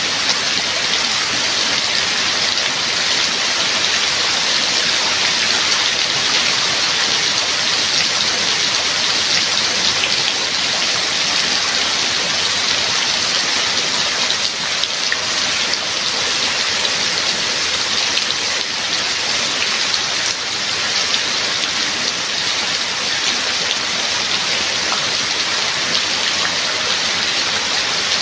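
Steady heavy rain: a dense, even hiss of rainfall with no pauses or thunder.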